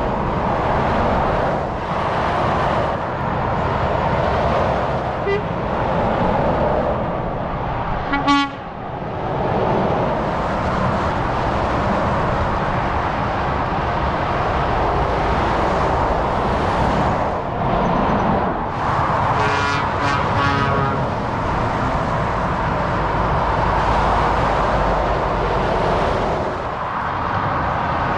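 Steady motorway traffic rushing past, heavy lorries among it. A vehicle horn gives a short toot about eight seconds in, and a horn sounds again for a second or so later on.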